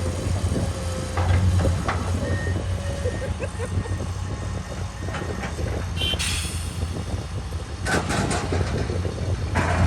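Heavy diesel earthmoving machinery running steadily, with short hissing bursts about six and eight seconds in and again near the end.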